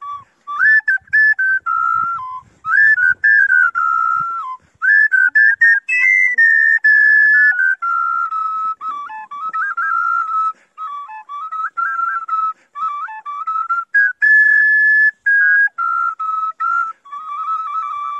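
A melody on a high flute-like wind instrument: one line of notes stepping up and down within a narrow range, in short phrases with brief breaks between them.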